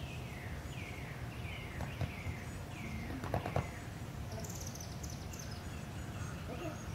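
A songbird singing a run of short down-slurred whistled notes, about two a second for the first three seconds, over a steady low background hum. A few soft clicks come about three and a half seconds in, and a brief high rattling trill follows around four and a half seconds.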